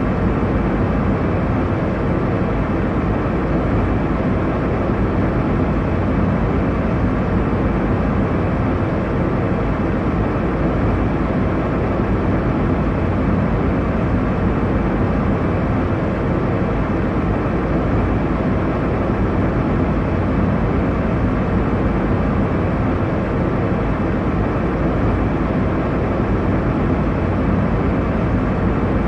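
Airliner cabin noise in flight: a steady, even rush of engine and airflow noise, strongest in the low range, with no changes.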